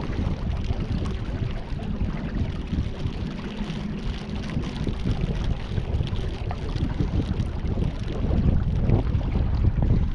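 Wind buffeting the microphone out on the river, with water noise underneath. A faint steady hum comes in for a few seconds in the middle, and the gusts get louder near the end.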